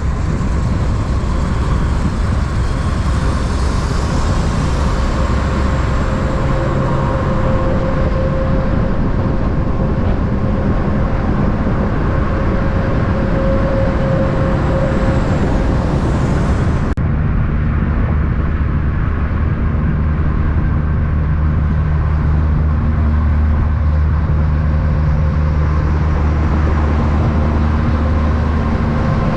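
Steady drone of a running heavy-vehicle engine with traffic noise. About 17 seconds in, the high hiss drops away abruptly and the low engine tones come up more clearly.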